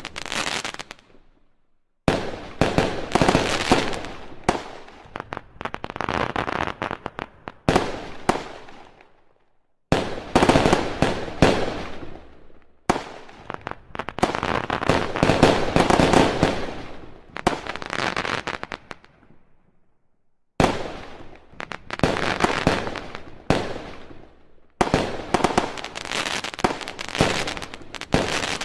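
Fireworks going off in rapid volleys of sharp cracks and bangs, each volley lasting a few seconds and fading away, with short gaps between them.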